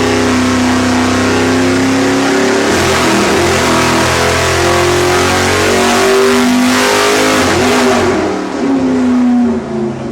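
572 cubic-inch big-block Chevrolet V8 running hard at full throttle on an engine dyno during a nitrous pull; its sound turns rougher about three seconds in. Near the end the throttle comes off and the engine falls away.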